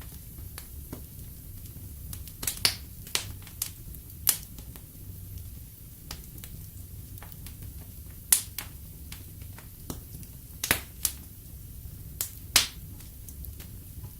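Wood fire burning in a fireplace, crackling with sharp, irregular pops and snaps over a steady low rumble of the flames.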